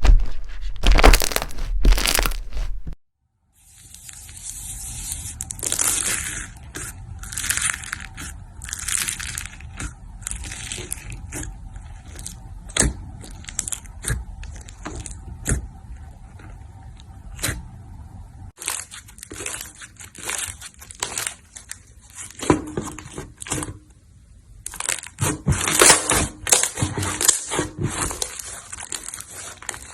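Slime being squeezed, pressed and poked by hand, giving dense crackling, popping and crunching, in several short clips with abrupt cuts between them.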